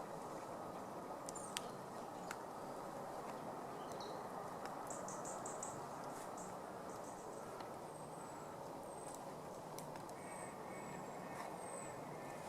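Small birds chirping high over a steady hiss: a quick trill about five seconds in, then short falling chirps roughly once a second through the second half.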